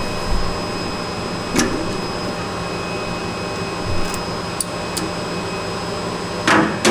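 Steady hum of an idling CNC lathe's pumps and fans, with a few light clicks and a louder knock near the end as the threaded test part is handled at the chuck.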